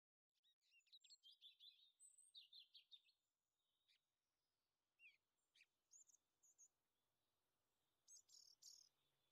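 Near silence with faint bird chirps: a quick run of short, high calls in the first three seconds, then scattered single chirps.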